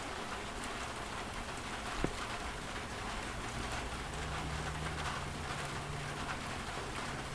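Steady heavy rain drumming on the roof and body of a Class C motorhome, heard from inside. A single sharp click comes about two seconds in, and a low hum joins about halfway through.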